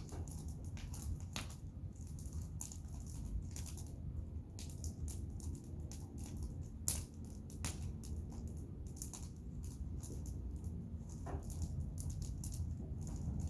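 Wood bonfire crackling, with frequent irregular sharp pops and snaps over a low steady rumble.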